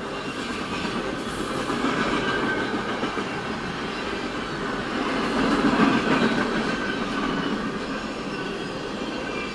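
Freight train cars rolling past on the rails, a steady clatter of wheels with some faint high squealing tones, heard from inside a stopped car. It swells louder a little past the middle, then eases back.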